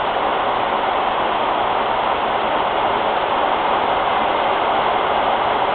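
Heavy thunderstorm rain pouring in a steady hiss, without any thunder claps.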